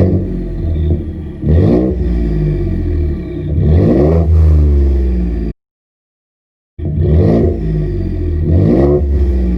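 Ford 2.7 EcoBoost twin-turbo V6 through an MBRP straight-through dual exhaust with the resonator deleted, idling with a low rumble and revved in four short blips that rise and drop back to idle. The sound cuts out completely for about a second midway.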